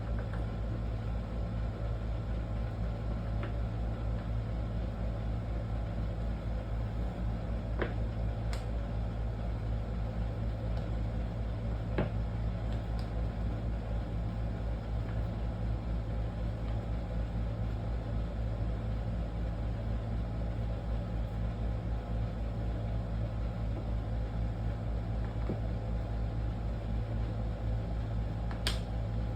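Steady low mechanical hum with a few faint sharp clicks scattered through it, about four in all.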